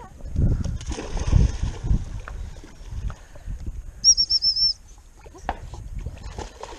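Water splashing and sloshing as a puppy swims through the water on a retrieve, with a brief high warbling tone about four seconds in.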